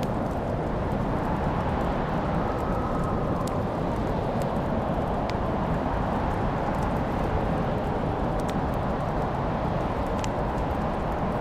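Wood fire burning in a fireplace: a steady low rush of flames with a handful of sharp crackles and pops scattered through it.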